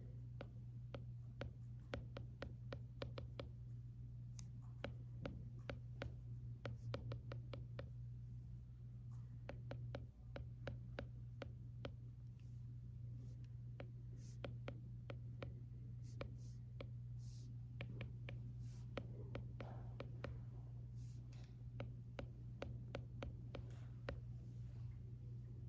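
Stylus writing on an iPad screen: a quick run of light plastic taps and ticks with a few short scratchy strokes, over a steady low hum of the room.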